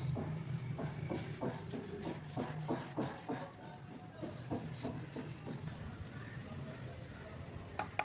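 A knife blade stroked back and forth against a sharpening surface, short scraping strokes about two to three a second that thin out about halfway through, with a sharp click near the end.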